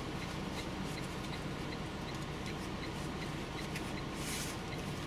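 Drone kit parts and packaging being handled: faint light clicks and a brief rustle about four seconds in, over a steady low hum.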